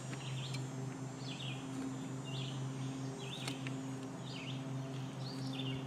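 A small bird chirping repeatedly, a short high call roughly once a second, over a steady low hum.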